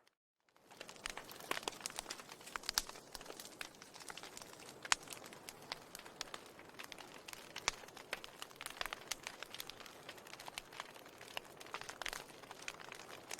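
Fireplace fire crackling, with frequent irregular sharp pops over a soft hiss. The sound drops out for about half a second at the start.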